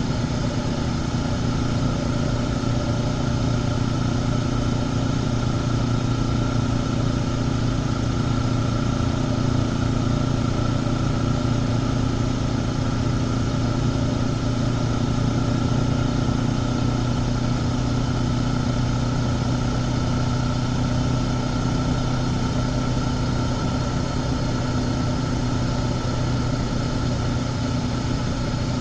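Honda CB500X's parallel-twin engine, on its stock exhaust, running at a steady cruise. Its note holds steady throughout, drifting only slightly in pitch.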